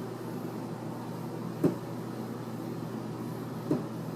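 Steady low household hum with two short, sharp knocks about two seconds apart.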